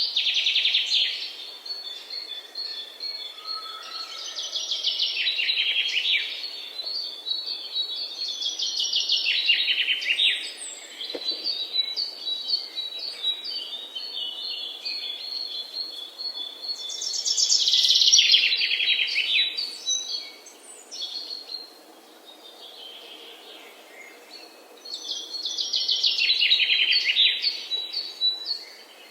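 Songbirds singing. About five loud phrases of rapid notes that fall in pitch come every few seconds, with thinner high chirps between them.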